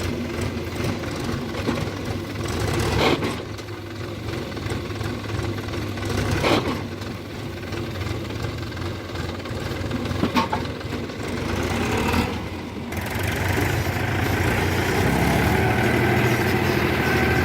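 Diesel engines of a backhoe loader and tractors running under work, with a sharp clunk about every three to four seconds. A little past two thirds of the way through, the engine sound turns fuller and louder.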